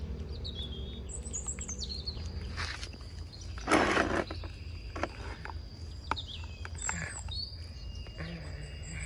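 Small birds chirping now and then over a steady outdoor background with a faint, steady high tone, and a brief loud noisy burst about four seconds in.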